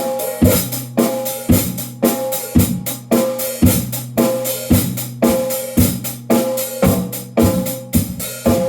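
Drum played by hand in a steady, even rhythm, about two strong strokes a second with lighter strokes between, each stroke ringing on a held tone.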